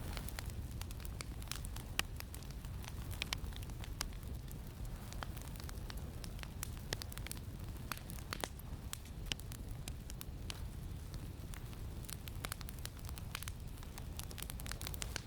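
Campfire crackling, with frequent irregular sharp pops and snaps, over a steady low rumble of wind.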